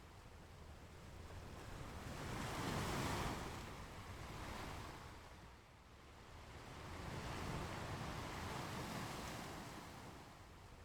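Ocean surf: waves breaking and washing up the shore in two slow swells of rushing water, the first loudest about three seconds in, then fading and building again.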